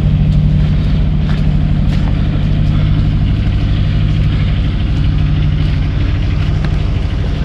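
An engine running steadily at a constant, unchanging speed, close by.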